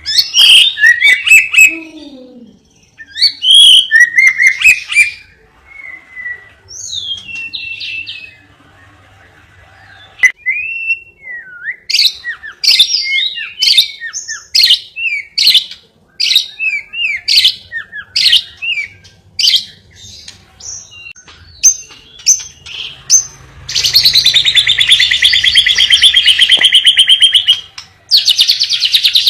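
Songbird singing: a string of sharp chirps and short whistled phrases, then a long, fast rolling trill lasting about four seconds, with another trill starting near the end.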